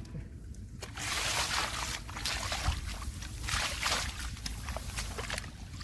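Splashing and sloshing in shallow muddy water, in repeated irregular bursts starting about a second in.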